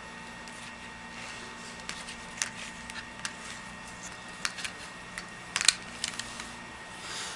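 Scattered sharp clicks and light handling noises, irregular and bunched into a quick cluster a little past halfway, over a steady background hum with a faint high whine.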